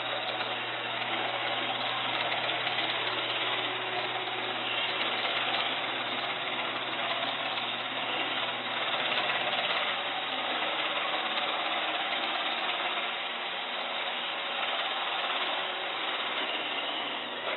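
Robot vacuum cleaner running steadily, its motor and brushes whirring with a low hum and faint scattered clicks.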